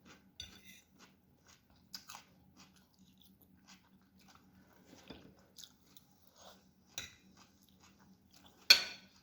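Close-miked chewing of lagmon noodles: soft wet mouth clicks and smacks scattered through, with one louder smack near the end.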